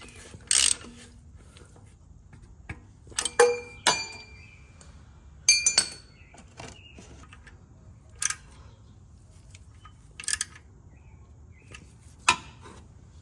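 A ratchet's last stroke, then scattered metallic clinks and taps of hand tools and parts being handled and set down during an oil change, a few of them ringing briefly.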